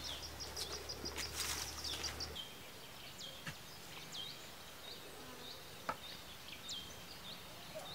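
Outdoor rural ambience with small birds calling: a rapid high ticking trill at the start, then repeated short chirps that slide down in pitch and level off, coming every second or so. A couple of faint knocks sound in the second half.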